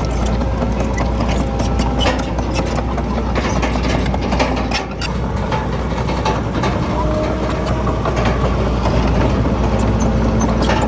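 Heavy diesel earthmoving machinery running steadily, with a deep rumble and frequent clanking and rattling knocks throughout.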